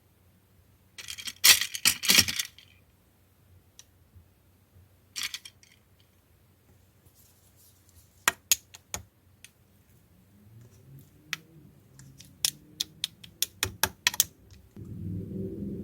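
Slime being handled: a loud crackling burst about a second in and a shorter one a few seconds later, then scattered sharp clicks and pops, with soft squishing that starts in the second half and grows louder near the end.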